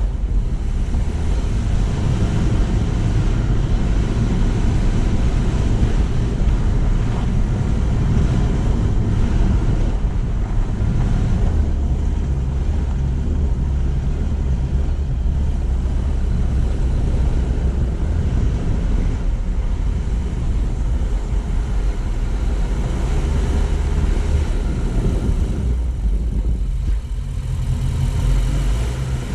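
A car driving, a steady low rumble of engine and road noise that eases briefly near the end.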